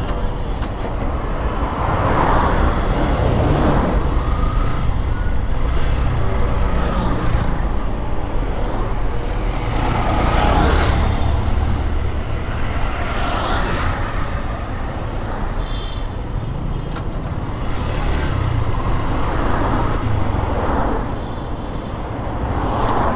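Yamaha FZ V2 motorcycle ridden through road traffic: a steady low rumble of engine and wind, with the noise of surrounding vehicles swelling several times.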